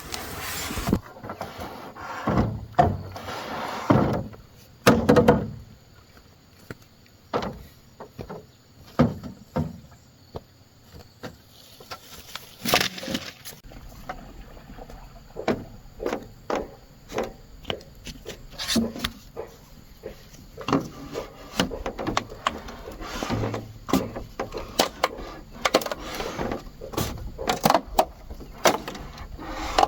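Irregular wooden knocks and thuds, several a second at times, with a few heavier blows, as of bamboo or wood being struck and handled.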